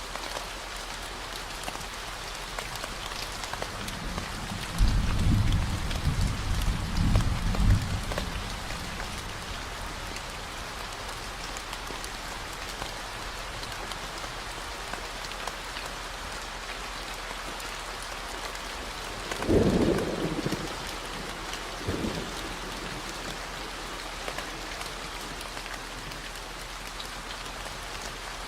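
Steady rain with thunder over a constant low 40 Hz hum. A low rolling rumble comes about a sixth of the way in and lasts about three seconds. About two-thirds through there is a sharper clap, with a smaller one two seconds after it.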